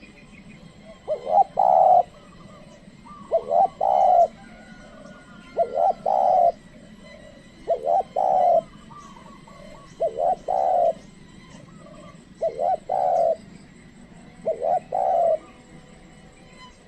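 Spotted dove (tekukur) cooing, seven calls about two seconds apart, each a quick double note followed by a longer coo. It is the call of a trained decoy dove used to lure wild doves.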